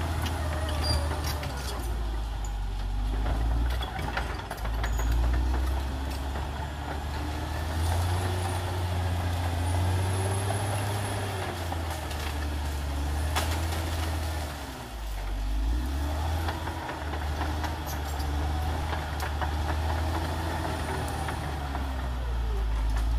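Caterpillar D6R XL bulldozer's diesel engine running hard, its pitch rising and falling as the load changes. Sharp metallic knocks come through, the loudest about 13 seconds in.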